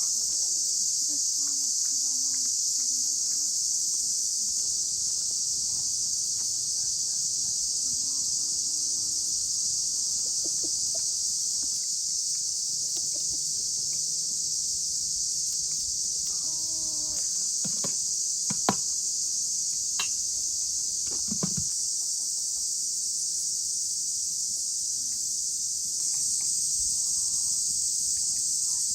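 Steady, high-pitched chorus of insects, growing a little louder near the end, with a few faint sharp knocks about two-thirds of the way through.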